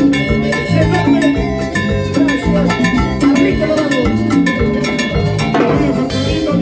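A live salsa band playing, with a steady bass line and percussion keeping the beat, and melody lines over the top.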